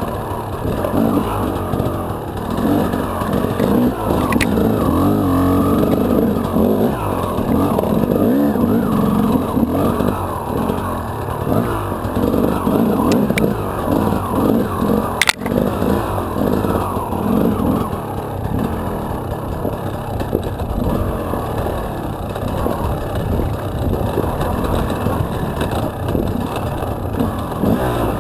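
Enduro dirt bike engine running under constantly changing throttle, revving up and dropping back in quick surges as it is ridden over rough ground. There is one sharp click about fifteen seconds in.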